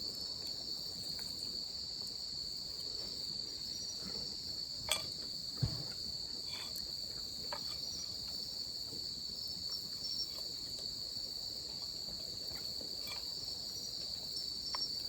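Insects chirring steadily in one continuous high-pitched drone, with a couple of faint clicks and a soft knock about five seconds in.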